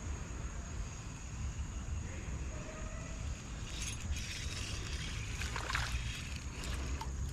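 Creek water running and sloshing around a wading angler, with a stretch of splashing and rattling about four to six seconds in as a hooked green sunfish is brought in.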